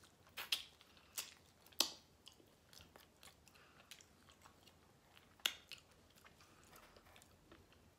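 A person biting and chewing meat off a barbecue rib, with a few sharp wet mouth clicks, the loudest about two seconds in and again about five and a half seconds in.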